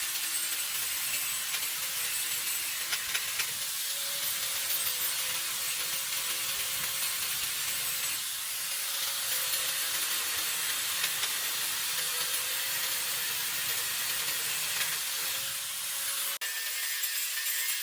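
Power tool polishing a laser weld on metal, a steady abrasive rasping hiss with a faint steady hum under it. About a second and a half before the end there is a click and the sound changes abruptly.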